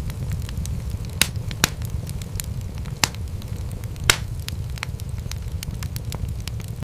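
Wood fire crackling: a steady low rumble of flames under frequent small snaps, with a few louder sharp pops in the first two thirds.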